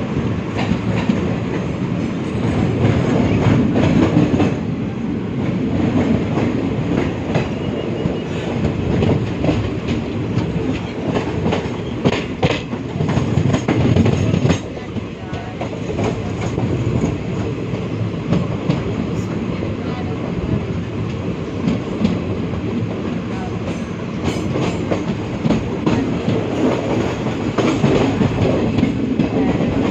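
Train running on the rails, a steady rumble with the repeated clatter of wheels over the rail joints.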